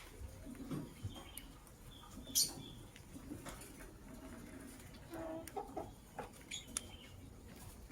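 Lovebirds giving short, scattered chirps among scratchy clicks and rustling, the sharpest chirp about two and a half seconds in.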